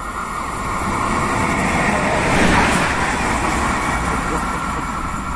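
A Renfe train passing through the station at speed. Its noise swells to a peak about halfway through and then eases off, over a steady high hum.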